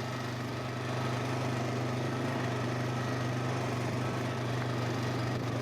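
Four-wheeler (ATV) engine running steadily while riding, an even low hum that holds one pitch throughout.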